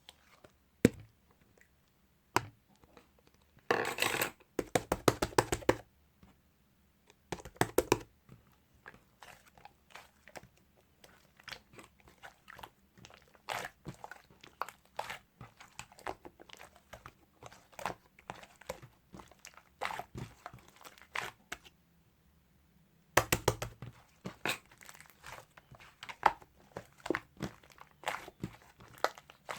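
Hands pressing, poking and kneading slime topped with clay, making runs of small sticky crackles and pops. Two louder spells of rapid crackling come a few seconds in and again later on, with softer scattered clicks between.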